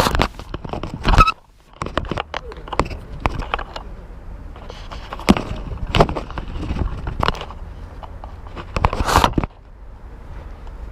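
Sharp knocks and thuds of football play, with scattered shouts from players; the busy sound cuts off abruptly near the end, leaving a steady background noise.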